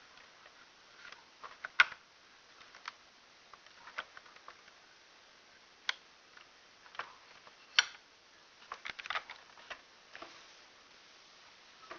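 Scattered small clicks and taps, loudest once about two seconds in and again near eight seconds, with a quick run of clicks around nine seconds: a 1/18 scale diecast model car being handled.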